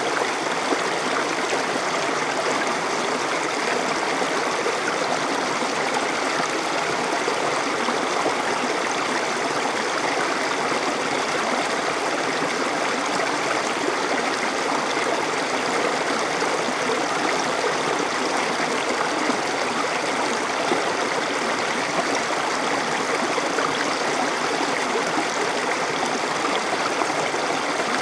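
A small stream flowing and burbling over rocks, a steady rushing water sound without pause.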